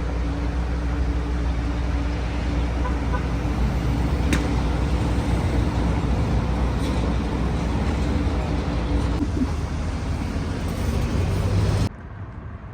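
Steady rumble and running noise of a moving vehicle, heard from inside. It cuts off suddenly near the end.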